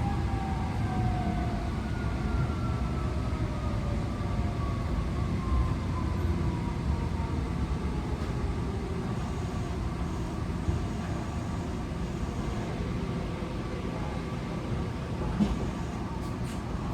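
Tokyo Metro 18000-series train heard from inside the car: the traction motor whine falls steadily in pitch through the first half as the train slows, over a constant rumble of wheels on rail. A single knock comes about fifteen seconds in.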